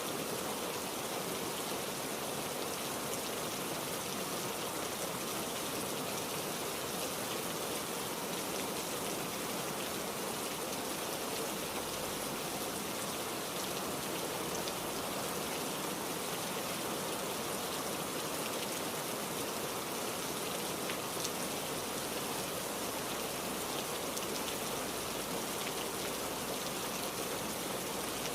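Heavy rain falling steadily, an even hiss with scattered drops ticking on a surface.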